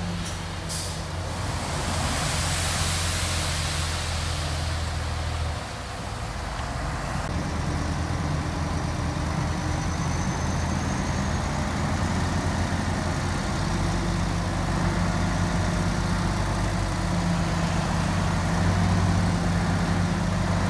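Heavy diesel engine of earthmoving machinery running steadily, with a rushing hiss over the first few seconds.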